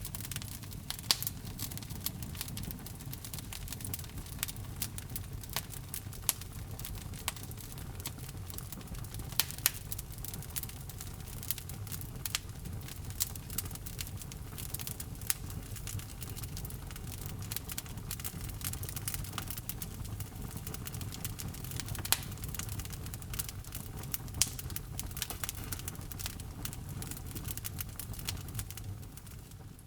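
Fire burning in a fireplace: a steady low rumble of flame with frequent sharp crackles and occasional louder pops, fading out at the very end.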